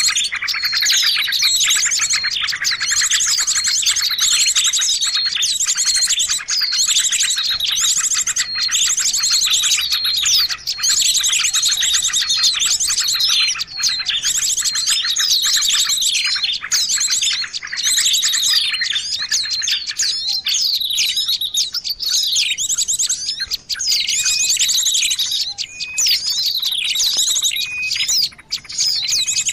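Bird-lure recording of small songbirds: a dense, nonstop chorus of high chirps and twitters from many birds at once. A lower buzzy trill runs underneath and stops about two-thirds of the way through.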